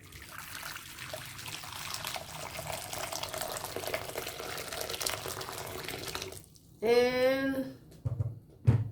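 Hot water pouring into a bowl: a steady splashing stream that stops about six seconds in. A thump near the end.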